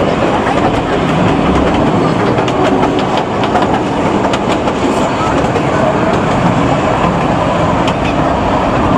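Kurobe Gorge Railway narrow-gauge trolley train running along the track, heard from on board: a loud, steady rumble of wheels on rails with scattered faint clicks.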